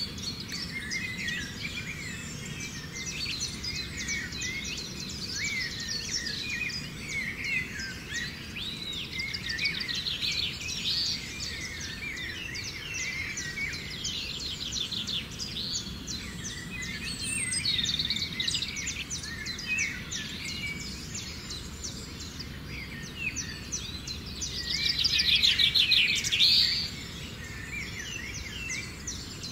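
Many wild birds chirping and twittering over a steady low background hiss, with a fast rapid trill, the loudest sound, a few seconds before the end.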